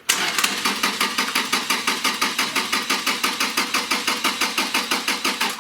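Toyota 2TR 2.7-litre four-cylinder petrol engine turning over on the starter motor without catching, an even rhythm of about seven compression strokes a second that stops near the end. It is being cranked to check oil flow to the exhaust camshaft's VVT-i valve port.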